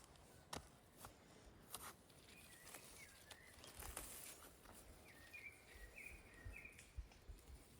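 Faint outdoor ambience: a small bird calling in short repeated chirps, with a run of about four notes past the middle, and a few sharp clicks in between.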